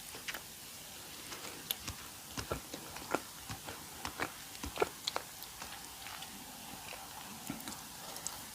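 Close-miked chewing of a custard-filled doughnut: a run of short, wet mouth clicks and soft squishes, busiest from about a second and a half to five seconds in, then thinning out.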